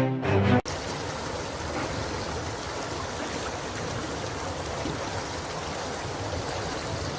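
Steady noise of flowing floodwater. A music sting cuts off about half a second in.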